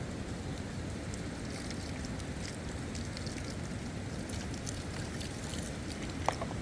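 Steady rain with wind buffeting the microphone and many small scattered drop ticks. One short, sharp sound stands out near the end.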